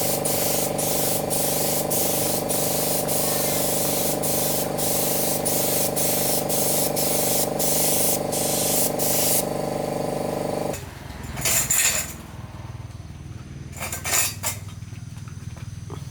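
Compressed-air spray gun hissing in short, evenly spaced pulses over the steady hum of a running machine. The hissing stops about nine and a half seconds in, the hum cuts off suddenly a little later, and a few light clinks follow.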